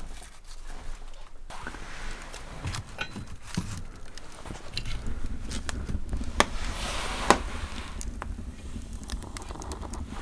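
Scattered clicks and crinkling handling noises, with a low rumble joining about five seconds in and two sharper clicks near the middle.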